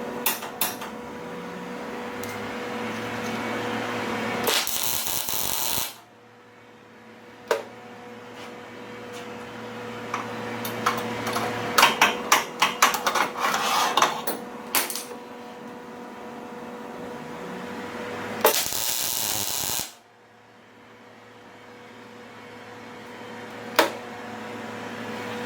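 MIG welder laying two short tack welds on steel box rail track: two bursts of arc noise, each about a second and a half long, the first about four and a half seconds in and the second about eighteen seconds in. Between them comes a quick flurry of clicks and knocks, over a steady hum.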